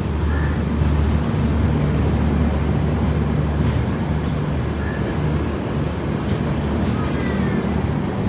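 Passenger train's steady low rumble as it pulls into a station, with a few faint bird calls over it.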